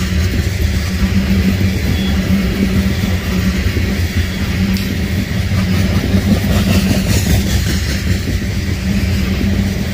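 Diesel-hauled freight train running past, a loud steady rumble of locomotive engines and wheels on rail with no horn.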